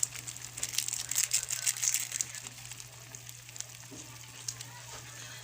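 Chicken feet frying in a pan, sizzling with many small crackles and pops, busiest in the first two seconds and then quieter. A steady low hum runs underneath.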